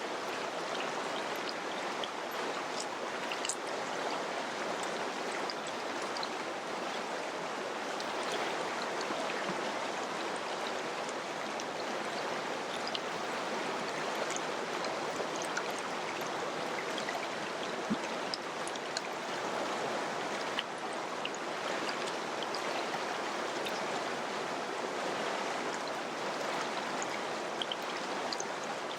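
River water flowing in a steady rush, with small splashes ticking through it.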